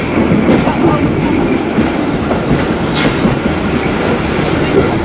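Vintage train running along the track, a steady loud rumble of wheels on the rails.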